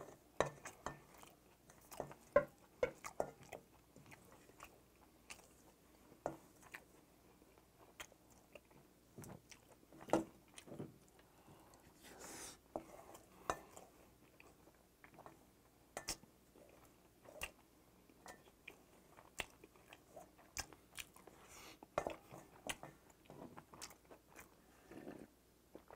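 Close-miked eating sounds: chewing and lip-smacking of mixed rice bibimbap, with scattered clicks of a wooden spoon scraping a stainless-steel bowl.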